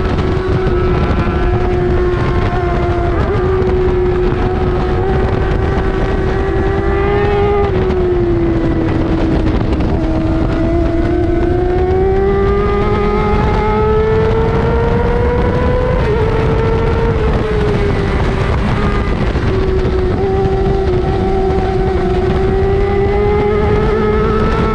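Racing sport bike engine held at high revs, its pitch sagging and climbing slowly with throttle through corners and straights, with a brief climb and drop about seven seconds in, over constant wind rush.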